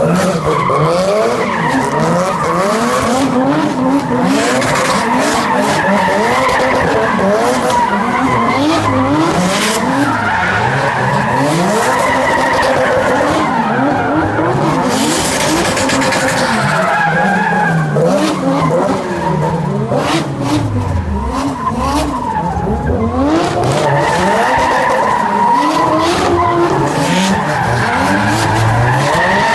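Drift cars being driven sideways: engines revving hard up and down over and over while the tyres squeal steadily.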